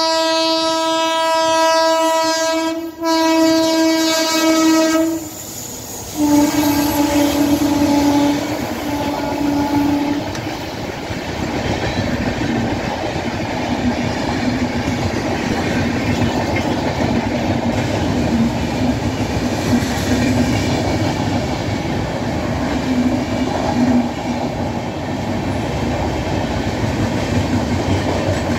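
Indian Railways express train passing at speed. The locomotive horn sounds a long blast, breaks briefly about three seconds in and sounds again, then gives a lower-pitched blast about six seconds in as the engine goes by. After that the long rake of LHB coaches runs past with steady wheel-on-rail noise.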